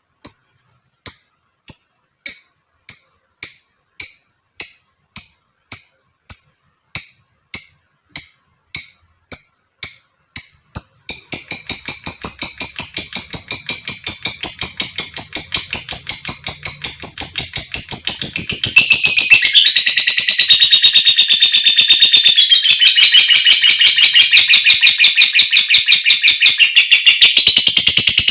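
Female lovebird calling: sharp single high chirps, a little under two a second, then about eleven seconds in it breaks into a long, rapid, unbroken trill (the chatter keepers call ngekek), which drops slightly in pitch about two-thirds of the way through.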